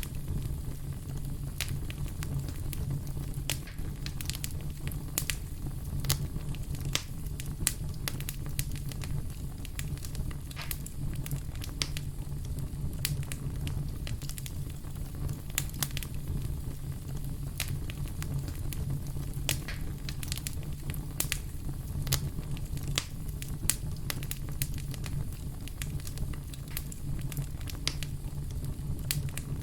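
Wood logs burning in a fireplace, crackling with frequent irregular sharp pops over a steady low rumble of the fire.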